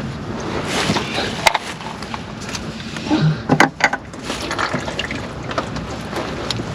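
Automatic transmission fluid pouring and trickling out of the loosened transmission pan into a drain pan, with a few sharp metallic clicks.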